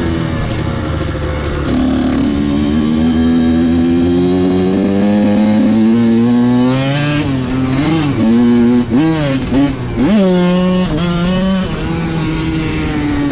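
Dirt bike engine running and climbing slowly in pitch as it is revved, then rising and dropping several times in quick succession as the throttle is worked, before settling to a steadier run near the end.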